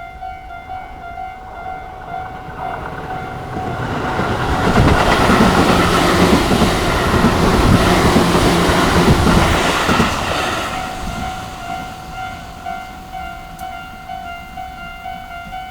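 Tobu Urban Park Line electric train passing over a level crossing: the noise swells about four seconds in, runs loud with wheels clacking over the rail joints for about six seconds, then fades. The crossing's electronic warning bells ring in steady pulses before and after, one of them a low single tone, and are drowned out while the train passes.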